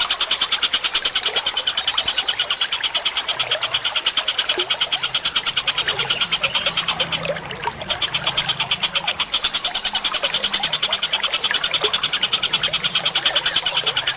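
Bird call track: a rapid, even series of sharp high chirps, about seven a second, broken once briefly around the middle, over faint flowing water.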